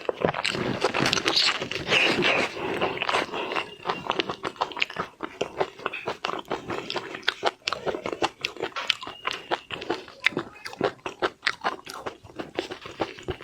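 Close-miked eating of seafood: wet biting, chewing and crunching, made up of many quick irregular clicks and crackles.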